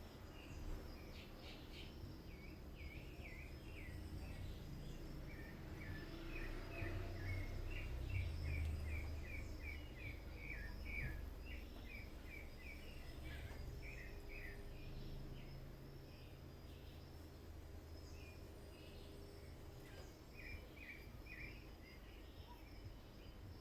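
A small bird chirping in quick runs of short notes, twice, over the low rumble of a Midea Wave-Agitator top-load washing machine running, which swells for a few seconds in the middle.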